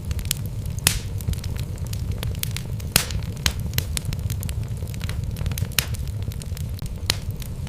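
Wood logs burning in a fireplace: a steady low rumble of the flames with sharp, irregular crackles and pops, a few louder snaps standing out.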